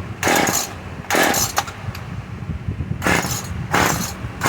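Echo CS-303T two-stroke chainsaw being pull-started: four quick whirs of the recoil starter rope, two, a pause, then two more, with the engine never firing. It will not start, which the owner puts down to the coil or a spark plug.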